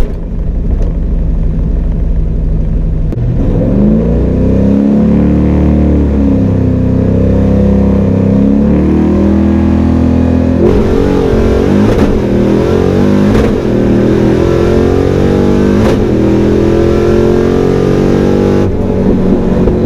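Fox-body Mustang's 5.0 V8 with long-tube headers and exhaust dumped behind the door, accelerating hard down the drag strip in a full-throttle pass. The revs climb and fall back at each gear change, then rise through a long final pull before the throttle comes off near the end.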